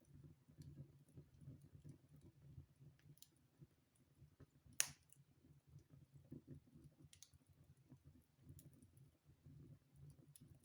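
Wood fire in a fireplace crackling quietly, with scattered small clicks over a low rumble and one sharp pop about halfway through.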